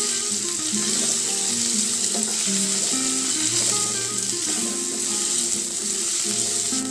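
Chopped onions sizzling in hot oil in a kadai while being stirred with a spatula, under background music with a simple melody.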